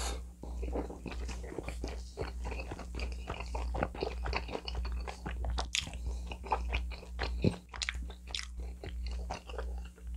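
Close-miked eating of pizza: irregular crunching of crust and wet chewing sounds, with a few sharper crunches, over a steady low hum.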